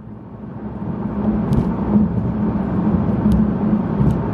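Car driving, heard from inside: engine and road noise building over the first second or so, then holding steady.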